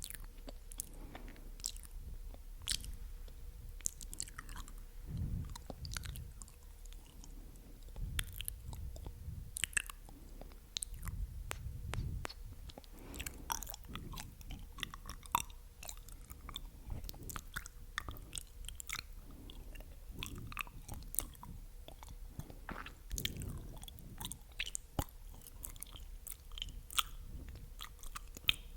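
Close-miked wet mouth sounds: sticky clicks and smacks of lips and tongue, many of them, at an uneven rhythm.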